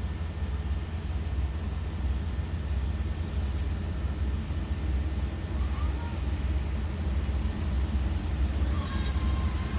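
Steady low rumble from a train, with a few faint short tones near the end.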